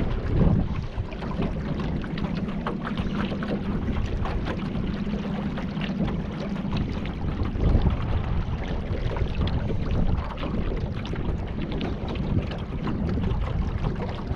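Water splashing and lapping around a kayak, with wind buffeting the microphone. A faint steady hum runs underneath for several seconds in the first half.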